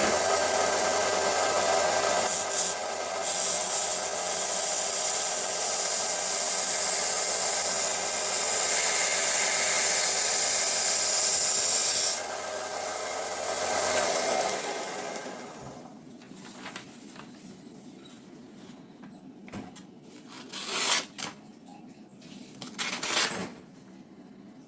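Scheppach BTS700 belt and disc sander running steadily. About twelve seconds in it is switched off and its motor and belt wind down over a few seconds. A few light knocks follow near the end.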